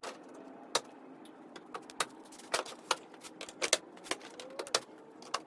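A series of light, sharp clicks and taps at irregular intervals, some louder than others.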